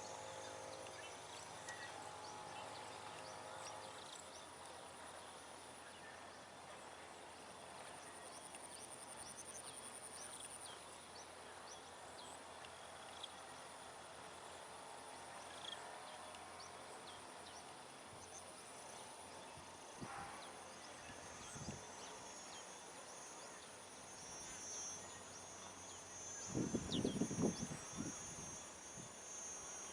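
Outdoor nature ambience: insects buzzing steadily, with many short bird chirps scattered through it. A brief low rumble comes near the end and is the loudest thing in the stretch.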